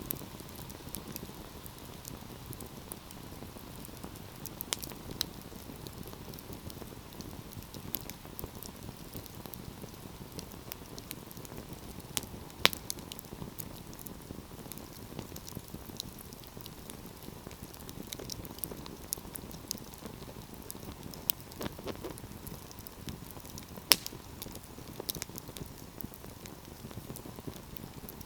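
Fire burning in a fireplace: a steady low rush of flame with scattered sharp crackles and pops at irregular intervals, the two loudest pops about halfway through and a few seconds before the end.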